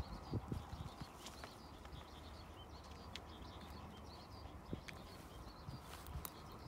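Many small birds chirping over and over in the background, faint, with a few soft low thumps in the first second.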